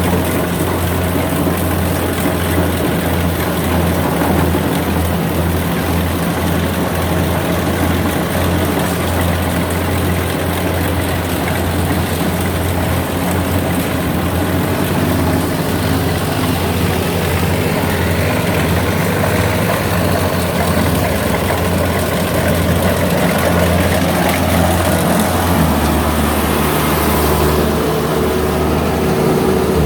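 Rice combine harvester's diesel engine running steadily with a deep, continuous hum and a mechanical clatter, its tone shifting slightly near the end.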